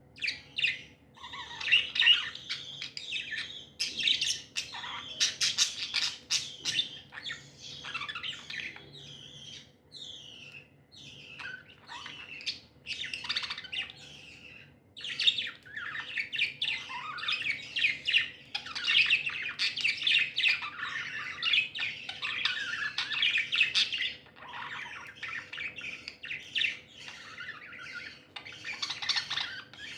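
Budgerigars chirping and warbling in rapid, overlapping chatter, with brief lulls between the louder runs.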